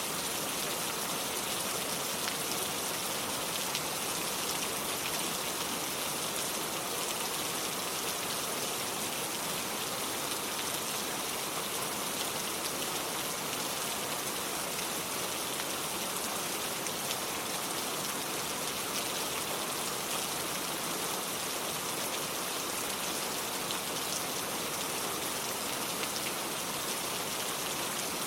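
Steady rain falling, with a constant hiss and scattered sharper drops ticking.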